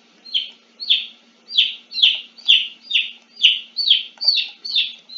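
A bird calling over and over, a short downward-sliding chirp about twice a second.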